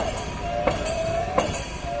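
Snake boat crew rowing in rhythm: a sharp strike about every 0.7 s, with a steady high tone held between strikes.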